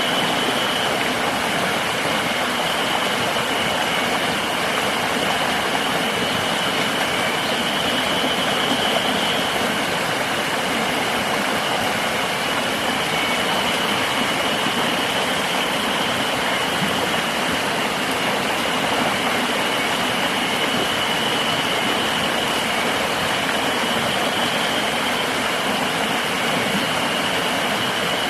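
River water running steadily, with a continuous high-pitched insect drone above it.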